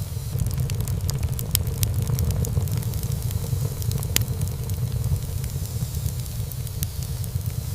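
Wood fire burning in a fireplace: a steady low rumble of flame under frequent sharp crackles and pops, with one loud pop about four seconds in.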